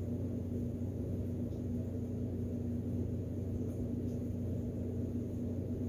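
Steady low electrical hum, an unchanging drone with no breaks.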